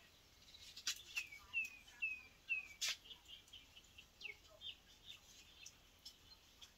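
A small bird chirping: a run of four or five short chirps, each falling in pitch, then fainter chirps. Sharp pops from the burning firewood come in between, the loudest about three seconds in.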